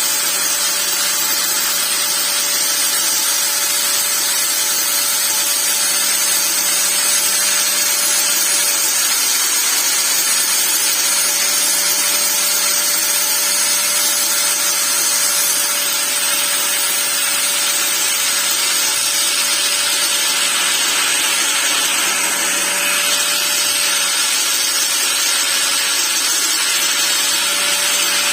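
Angle grinder running continuously at a steady speed: a constant motor hum under a harsh grinding hiss as the disc works material.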